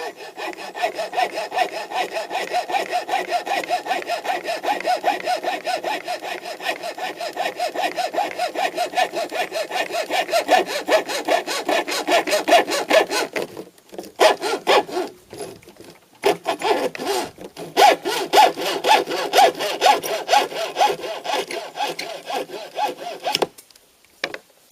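Hacksaw cutting through a graphite-and-fiberglass fishing rod blank in quick, even back-and-forth strokes. The sawing pauses a little past halfway, resumes, and stops shortly before the end.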